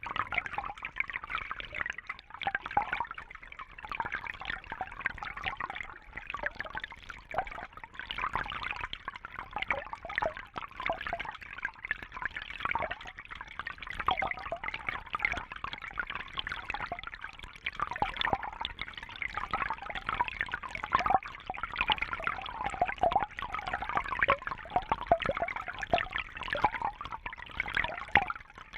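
Fish tank water trickling and bubbling without a break, a dense patter of small splashes and bubbles.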